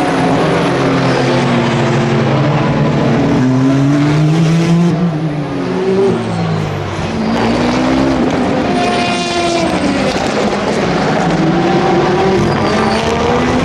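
Several race cars running at speed around the track. Their engine notes overlap and rise and fall in pitch as the cars accelerate, shift gear, brake and pass by.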